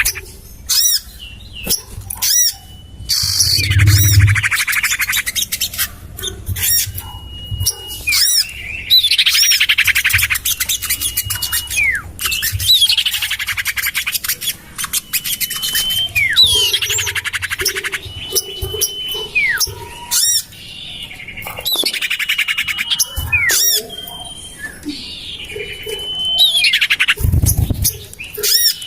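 Bird-lure recording of common iora calls: short held whistles, each followed by harsh, scolding chatter, repeating every few seconds.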